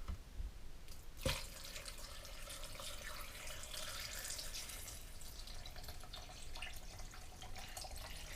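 Filtered water being poured into a Vitamix S55 blender container, a steady pour after a light knock about a second in.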